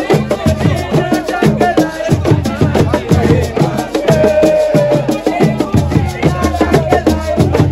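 Assiko music: a dense, fast rhythm of drums and wood-block-like percussion, with a voice singing over it.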